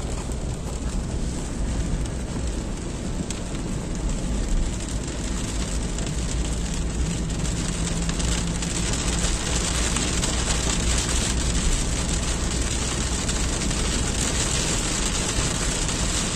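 Heavy rain on a car's roof and windshield, heard from inside the moving car over the steady rumble of engine and tyres on the wet road. The hiss gets louder about halfway through.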